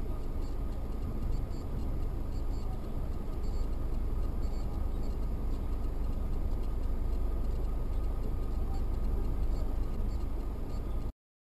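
Steady low road and engine rumble of a car driving, picked up inside the cabin by a dashcam, with faint scattered high ticks. It cuts off abruptly near the end.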